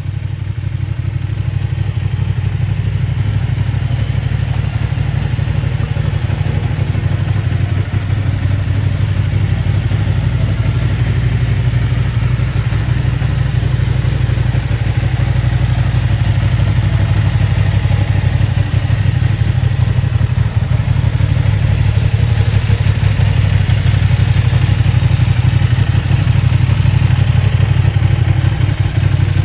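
2023 Ducati Panigale V2's 955 cc Superquadro V-twin engine idling steadily.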